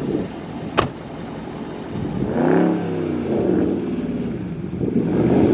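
Dodge Scat Pack's 6.4-litre HEMI V8 revving, its pitch climbing and falling back once about halfway through, with a sharp click just under a second in.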